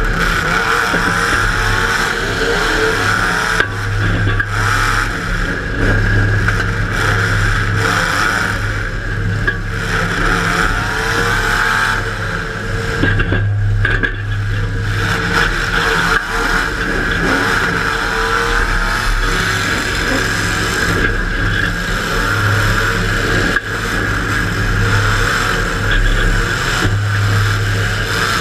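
Demolition derby car's engine running and revving up and down again and again, heard from inside the car.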